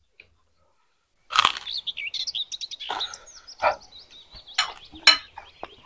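Small birds chirping in many quick, short notes, starting about a second and a half in, mixed with scattered sharp clicks of spoons against bowls as people eat.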